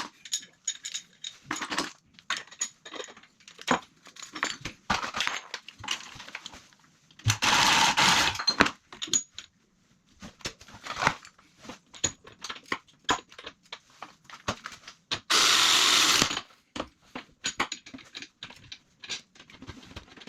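Copper pipe and fittings being worked by hand: metal clinks, taps and knocks of tools and fittings, with two loud rushing bursts about a second long, one near the middle and one later.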